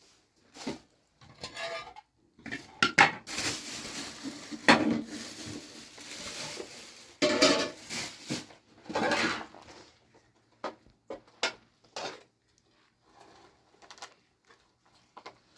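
A series of irregular knocks and clatters, with a longer stretch of steady noise from about three to seven seconds in.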